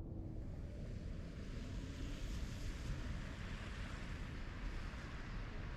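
Snowstorm wind rumbling on the microphone, with a hiss that swells for a few seconds and then eases.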